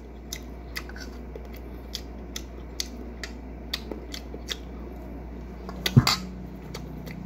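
Close-up eating sounds: food being chewed, heard as short crisp mouth clicks about twice a second, with a louder knock about six seconds in.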